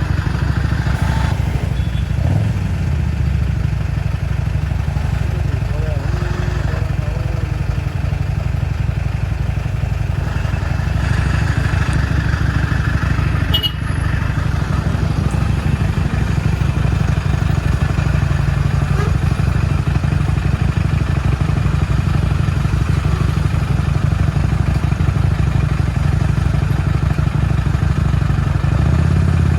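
Motorcycle on the move in traffic: the engine running under steady road noise, with a heavy, even rumble from wind on the phone's microphone.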